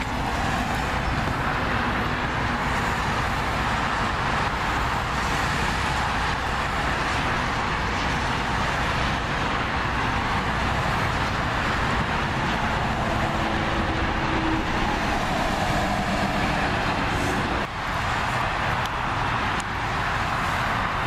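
Steady rushing road and engine noise heard from inside a moving car, with a brief dip about three-quarters of the way through.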